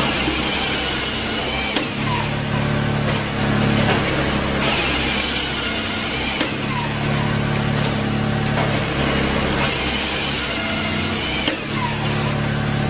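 Tajfun RCA-400 Joy firewood processor running. Its drive drone swells and eases every few seconds as the machine works through logs, and twice a harsher, higher rushing noise joins in for a second or two.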